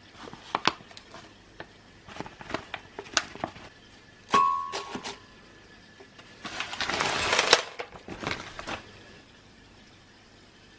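Objects being handled: a series of light clicks and taps, a short ringing ding about four seconds in, and a brief rushing noise about seven seconds in.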